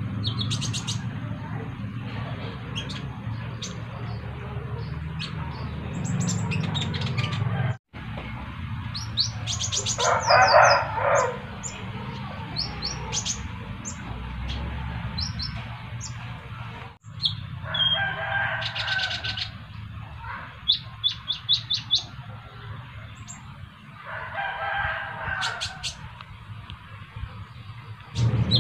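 Sunbirds (kolibri ninja) calling: a stream of short, high chirps, with a second bird answering, and three louder runs of busier twittering. A steady low hum runs underneath.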